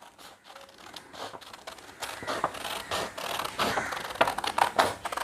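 Scissors cutting through a paper printout, a quick run of short snips that starts about two seconds in.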